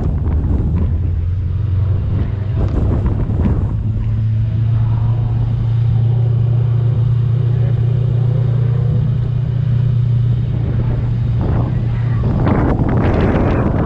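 Supercharged V8 engine of a Toyota Soarer drift car running at steady revs, a constant low drone with no revving, with gusts of wind on the microphone at the start and near the end.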